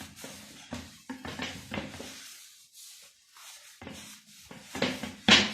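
Hand scrubbing strokes on a Honda CG 125 rear wheel hub as it is cleaned with cleaner and red polishing compound, in uneven rasping bursts. There is a pause of about a second and a half in the middle, and the loudest stroke comes near the end.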